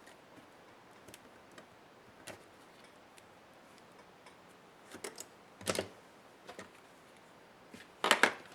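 Scattered small clicks and taps of laptop parts being handled and set down during disassembly, with a louder clatter a little past the middle and a quick cluster of knocks near the end.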